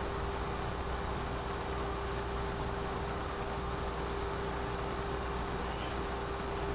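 Boeing 737 flight-deck noise in flight: a steady, even rush of airflow and jet engine noise with a constant hum over it.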